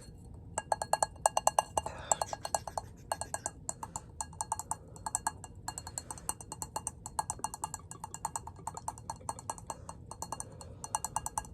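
Rapid ASMR tapping on a candle's container: quick runs of light taps, about nine a second with short pauses, each tap ringing at the same clear pitch.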